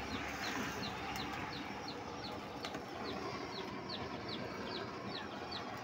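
A bird chirping in a fast, even series of short high peeps, about three a second, over a faint steady sizzle of deep-frying oil.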